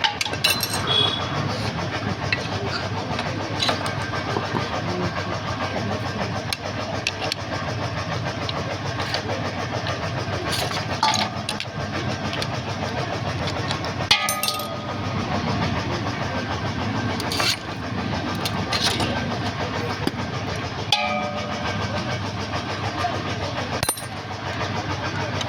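An engine running steadily, with occasional sharp metallic clicks and clinks over it.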